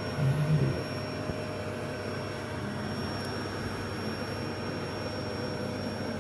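Bee vacuum running steadily with a constant hum, sucking up bees during a hive removal; a brief low sound rises over it just after the start.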